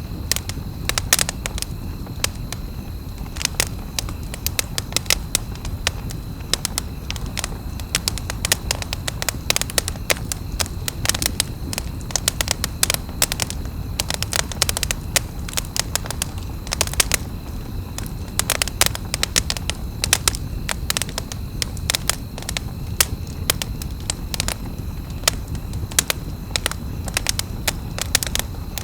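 Wood fire crackling: frequent sharp, irregular snaps and pops of burning wood over a low, steady rush of the flames.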